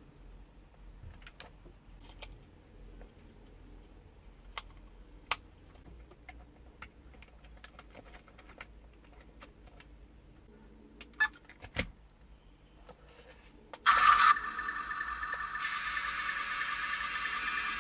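Small clicks and ticks of tiny plastic and metal parts being handled, then, about 14 s in, a small electric motor and gearbox starts with a sudden steady, high whir that keeps running: the mini radio-control tank's drive working after repair.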